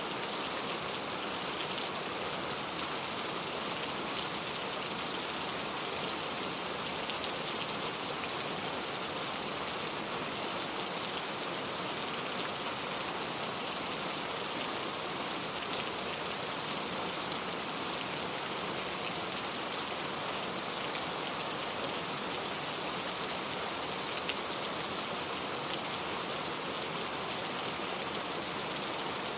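Steady rainfall with many small drops pattering on a surface, an even hiss without pauses or changes.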